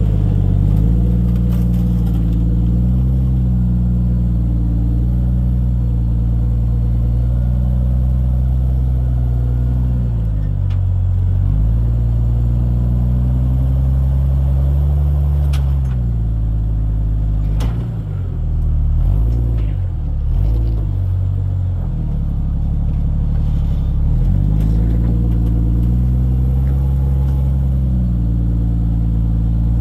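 Jeep Cherokee XJ's engine running at low crawling revs, the pitch steady for long stretches and rising and falling with throttle in several places, most unsettled in the middle where the revs go up and down quickly. A few sharp knocks are heard in the middle.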